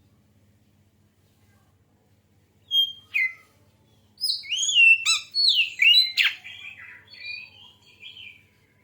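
Oriental magpie-robin (kacer) singing: two short notes about three seconds in, then a varied phrase of sliding whistles and chirps lasting about four seconds.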